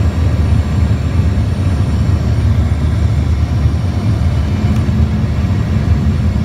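Steady low rumble of an airplane's engines and rushing air, heard from inside the passenger cabin, with a few steady hums in it.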